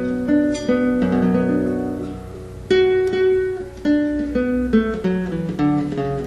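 Acoustic guitar played solo by an amateur: single plucked notes forming a slow melody over a held low bass, with a strong fresh note about halfway through.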